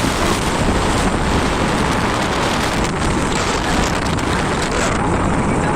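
Wind rushing over the microphone on a moving motorcycle: a loud, steady, even rush with road noise beneath.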